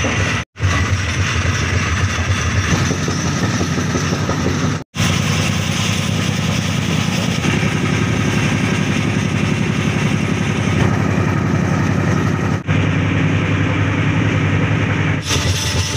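Express passenger train running at speed, heard from on board the coach: a steady loud rush and rumble of wheels on rails, broken by three very short gaps.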